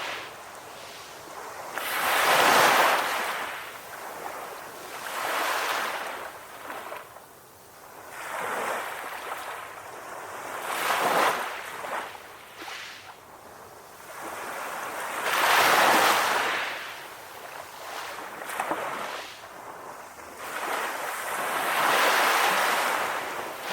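Sea waves breaking and washing on a shore, each surge swelling and fading, about every three to six seconds.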